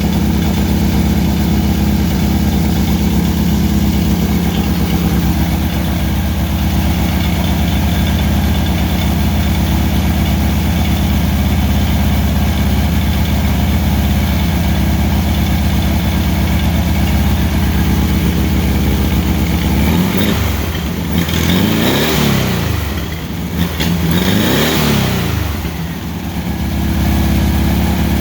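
Air-cooled VW 1600 single-port flat-four with a Holley 2110 'bug spray' carburettor idling steadily on its warm-up, timing and idle not yet set. About 20 seconds in it is revved up and back down twice.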